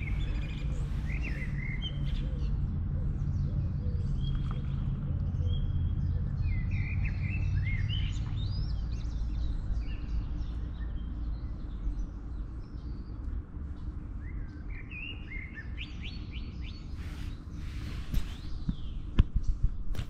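Small birds chirping and calling over a steady low rumble, with a few sharp clicks near the end.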